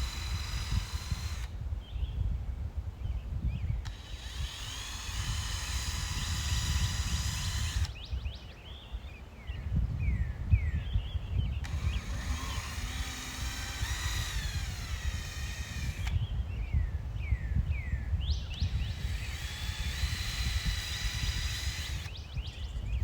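Power drill driving wood screws: four runs of a few seconds each, the motor whine rising as it spins up, with pauses between. Wind rumbles on the microphone and short bird chirps come in the gaps.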